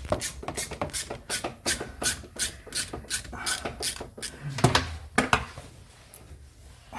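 A fast run of sharp clicks and scrapes from hand tools working on the car, then two louder knocks about half a second apart, as the cooling system is opened up for draining.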